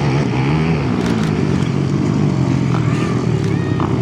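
Several motocross dirt-bike engines running together, their overlapping engine notes rising and falling as they rev.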